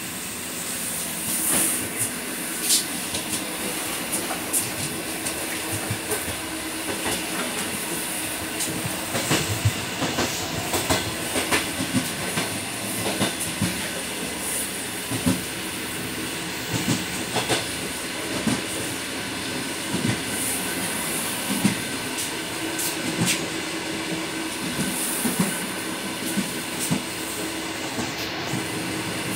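Suburban electric train running, heard from inside the car. There is a steady running noise and hum, broken by irregular clicks and knocks of the wheels over rail joints.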